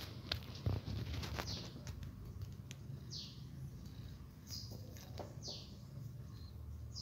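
A small bird chirping: four short high calls, each falling in pitch, about a second apart from about three seconds in, over a low steady hum. A few sharp clicks sound in the first second and a half.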